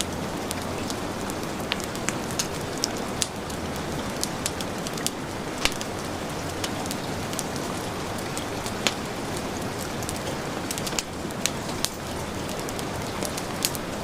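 Heavy rain falling steadily, mixed with a wood fire crackling, with sharp pops scattered irregularly throughout.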